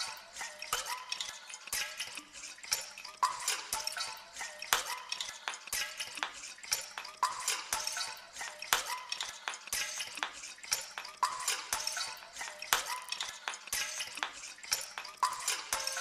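Composed soundscape of dense clinking, drip-like clicks, with a short ringing ping recurring about every one and a half to two seconds in a loose rhythm.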